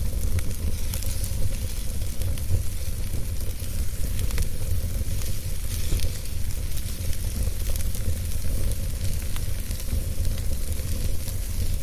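Wood fire burning in a fireplace, hissing and crackling with many small irregular pops over a steady low rumble.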